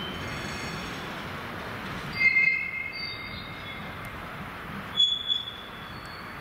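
Freight train of tank wagons rolling away over the tracks, its wheels squealing in high-pitched screeches over a steady rumble. The squeals are loudest about two seconds in and again near five seconds.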